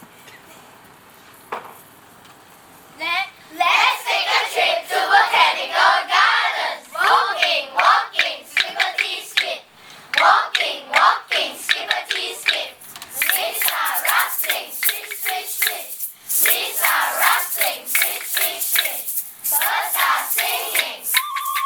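A children's ensemble making a nature soundscape with voices and hands: many overlapping chirps, whistles and calls mixed with clapping, starting about three seconds in after a quiet start. A short held whistle-like tone comes near the end.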